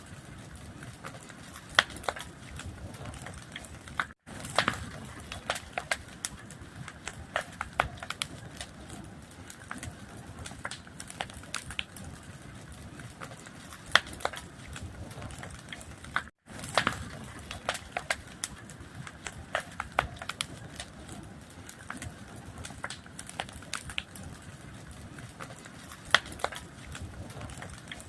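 Fire crackling, with frequent sharp irregular pops over a low rumble. The sound cuts out for a split second twice, about four seconds in and again about sixteen seconds in.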